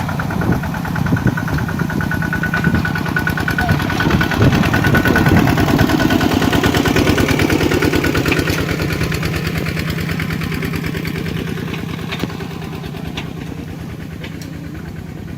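Farm tractor engine running with a rapid, even beat, growing louder toward the middle and then fading gradually over the last several seconds.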